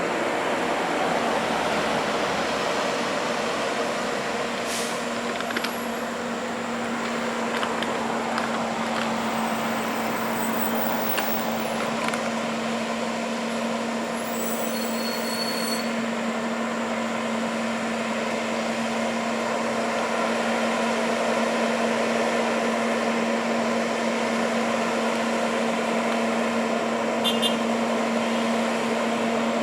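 Heavy truck running, a steady hum held over a wash of road and traffic noise, with a few faint clicks.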